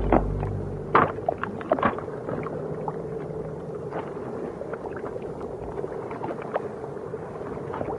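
Underwater ambience: a steady low hiss with many scattered sharp clicks and pops, thickest in the first two seconds.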